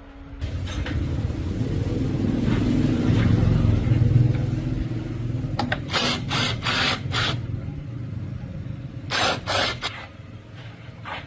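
A motor starts running and rises to a steady low rumble that slowly eases off, with two quick runs of short hissing blasts, four and then three.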